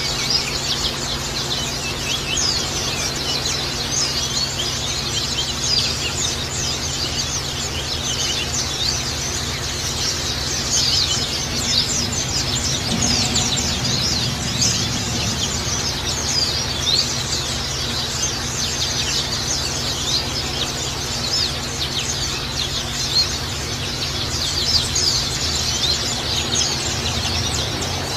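White-eyes (pleci) twittering: a continuous, dense stream of short, high, rapid chirps with no pauses, over a steady low background hum.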